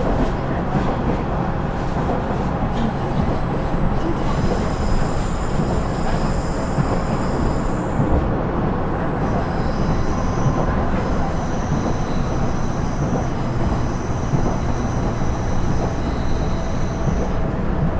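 Interior running sound of a KiHa 112 diesel railcar (KiHa 110 series) under way: a steady rumble of the diesel engine and the wheels on the rails. From about three seconds in, thin high-pitched wheel squeals come and go.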